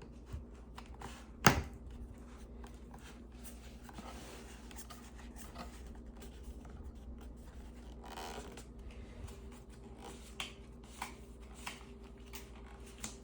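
Hands handling a folded paper manual and packaging: soft paper rustling and scattered light clicks, with one sharp click about a second and a half in.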